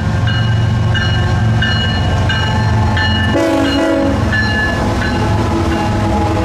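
Union Pacific diesel-electric freight locomotives rolling through with a steady low rumble, and one short horn blast about three and a half seconds in. A high ding repeats two or three times a second throughout.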